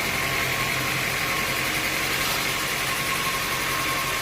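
Sawmill machinery running steadily: an even mechanical drone that holds the same pitch throughout.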